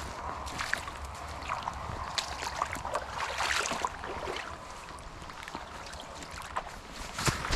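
Footsteps of boots crunching through snow, an irregular run of steps with the loudest one near the end.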